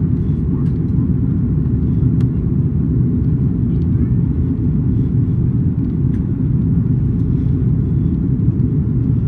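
Steady low rumble of airflow and engines heard inside the cabin of an Airbus A330-200 airliner, with a few faint light clicks.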